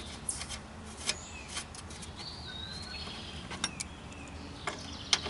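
Scattered light clicks and taps of a nut and hand tools being worked on a lawn tractor's solenoid mounting. A bird chirps about two seconds in.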